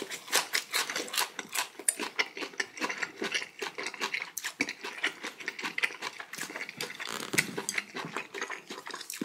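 Close-miked chewing of a mouthful of raw flounder sashimi wrapped in a perilla leaf with wasabi and a raw garlic clove: many rapid, crisp, wet clicks and crunches.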